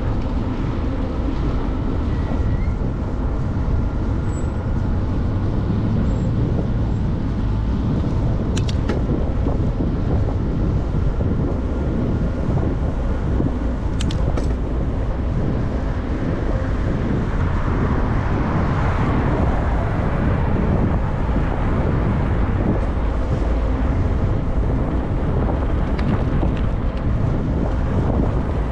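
Wind buffeting the microphone of a camera on a moving bicycle, a steady low rush, with road traffic noise underneath. A brighter rush of noise swells about two-thirds of the way through, and a few sharp clicks come about a third and a half of the way in.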